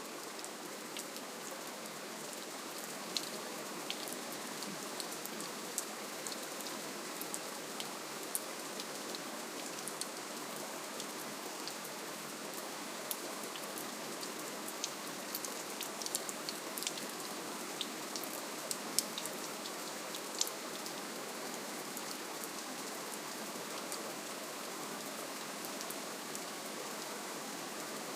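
Steady rainfall, a soft even hiss with many individual drops ticking on a surface, scattered throughout and thickest around the middle.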